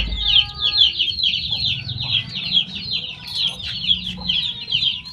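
Songbirds chattering in a fast, unbroken run of high, downward-sweeping chirps, about five a second. A sharp click comes right at the start.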